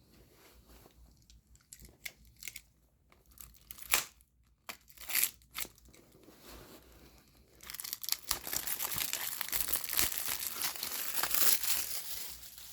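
Plastic shrink wrap on a DVD case crinkling and tearing as it is pulled off. A few short handling clicks come first, then continuous crinkling for the last five seconds or so.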